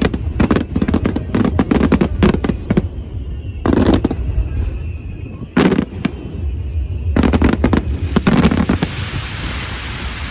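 Aerial fireworks bursting: a rapid volley of bangs in the first few seconds, then single booms a second or two apart, another quick cluster, and a fizzing crackle of sparks near the end.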